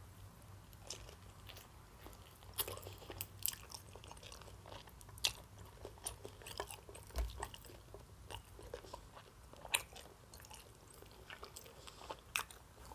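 Close-miked chewing of a mouthful of fried chicken, with scattered small crunches and wet mouth clicks.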